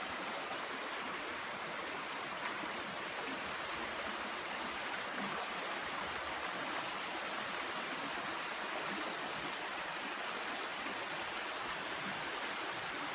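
Steady rush of a shallow creek's running water, an even wash of noise that holds level throughout.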